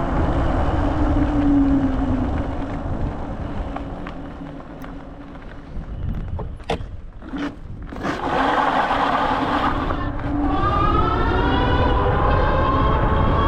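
E-bike hub motor whining under wind rushing over the microphone. About halfway the wind and motor drop away for a couple of seconds with a few clicks. Then the motor whine comes back and rises steadily in pitch as the bike speeds up.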